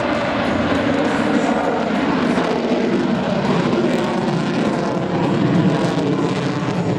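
Jet noise from a Lockheed Martin F-22 Raptor's twin Pratt & Whitney F119 turbofan engines as the fighter flies its demonstration: a loud, steady rush of engine noise.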